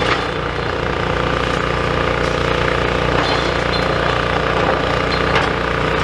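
Diesel engine of a large demolition excavator running steadily under load as it shoves rubble, with a few faint knocks of debris.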